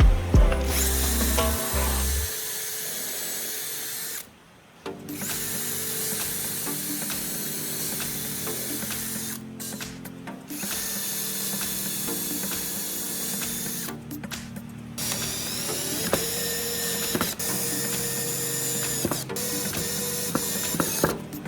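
Power tool motor running in several stretches a few seconds long, broken by sudden cuts, with background music.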